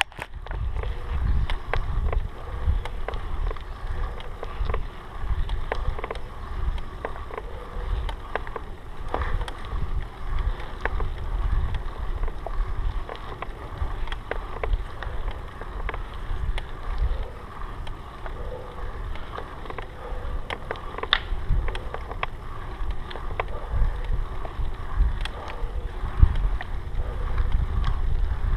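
Steady low wind rumble on the microphone, with frequent small clicks and rattles throughout.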